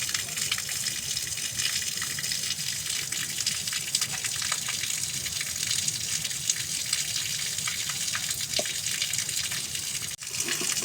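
Steady rush of gushing water, unbroken and even, with a brief dropout near the end.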